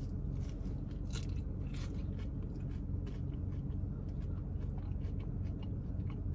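A person biting into and chewing an ube hand pie with a crispy crust: many small crunches and mouth clicks, most of them in the first two seconds, over a steady low hum.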